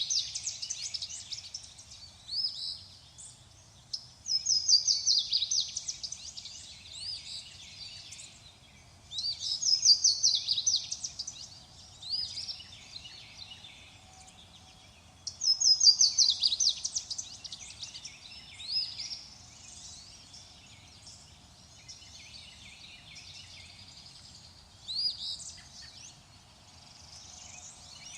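A songbird singing: a loud phrase of quick, rapidly repeated chirping notes every four to six seconds, with softer, shorter phrases in between.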